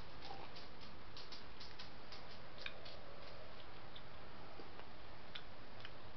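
A person chewing a tortilla wrap, with small, irregular clicks of the mouth and food over a steady background hiss.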